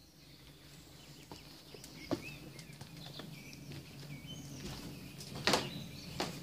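Small birds chirping and calling in short rising and falling notes. A couple of sharp cracks cut through, the loudest about five and a half seconds in.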